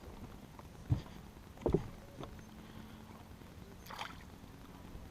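Handling noise on a small fishing boat: two sharp knocks, about a second in and just before two seconds, a few lighter ticks, then a brief rustle around four seconds in, over a faint steady hum.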